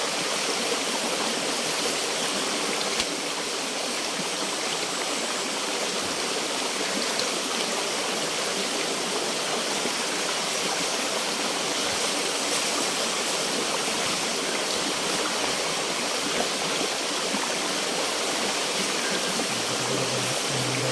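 Steady rushing of a flowing river or stream.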